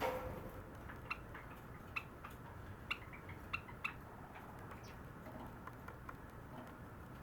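Sakura Java sparrow singing: a run of short, clicking, bell-like notes over about three seconds, with fainter notes after. A sharp knock with a brief ring comes right at the start.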